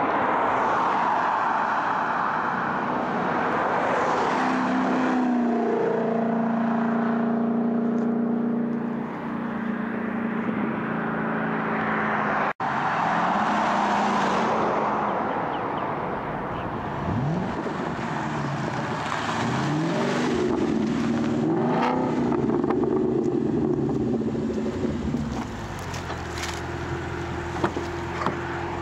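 2011 Mustang GT's 5.0 V8 running through a muffler-delete exhaust with an X-pipe. The engine note rises and falls several times as it revs up and settles back, with a brief break about twelve seconds in.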